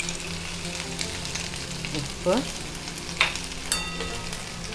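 Boiled taro root (colocasia) pieces sizzling steadily in hot oil in a kadai while they shallow-fry with a mustard and urad dal tempering, with a few light clicks.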